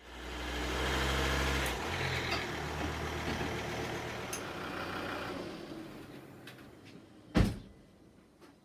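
A 2011 Volvo XC60 D3's 2.0-litre five-cylinder diesel engine (D5204T3) running with a steady low hum, then fading away over a few seconds. A single loud thump comes about seven seconds in, followed by a few faint clicks.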